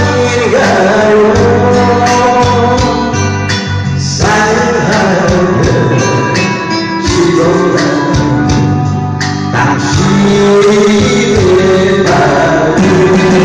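A man singing a Korean pop song over band accompaniment with guitar.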